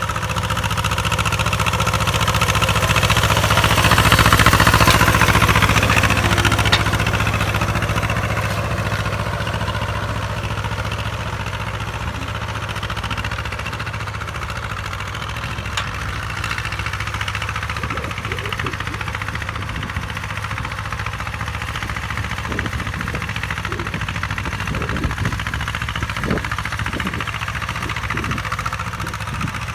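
Two-cylinder air-cooled diesel engine of a T25 tractor running steadily under load while pulling an 18-disc harrow in high gear, loudest about four to five seconds in.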